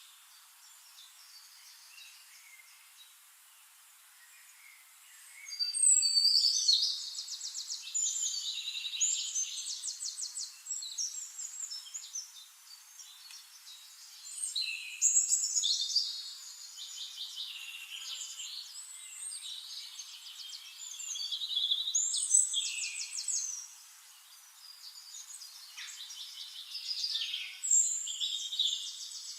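Several forest birds singing. The first few seconds are faint, then high, fast trilled phrases and chirps follow one another, some overlapping, in bursts every few seconds.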